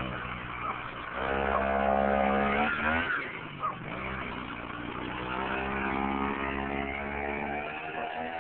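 Pit bike's small single-cylinder engine running and revving up twice, each time holding a steady higher pitch for a few seconds before easing off.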